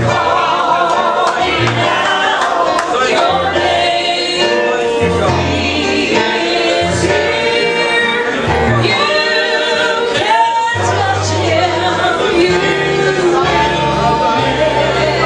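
Gospel song sung by several voices with instrumental accompaniment and a moving bass line.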